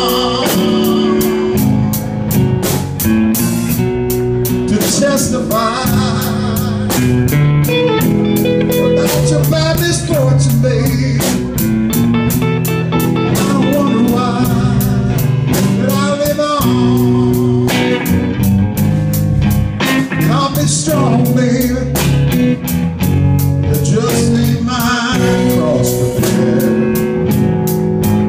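Live blues band playing: electric guitar over bass and a steady drum beat.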